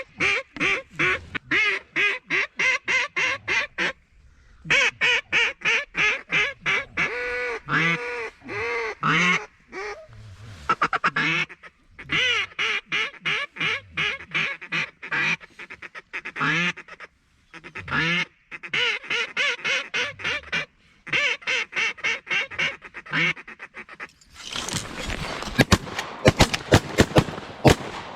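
Rapid strings of duck quacks, each note dropping in pitch, repeated in regular runs with short pauses. Near the end comes a dense burst of sharp cracks over a rush of noise, the loudest part.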